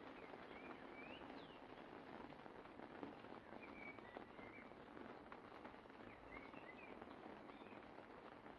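Faint light rain falling steadily, with small birds chirping in short calls throughout.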